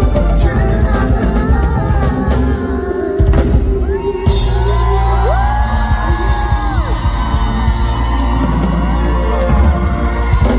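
A live pop-rock band plays with long held, sliding sung notes over heavy bass and drums, amplified through a PA in a large hall. About three seconds in the band drops out briefly, then comes back in.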